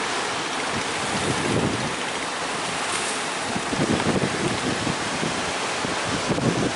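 Strong wind buffeting the microphone over the rush of choppy sea waves, in gusts and swells.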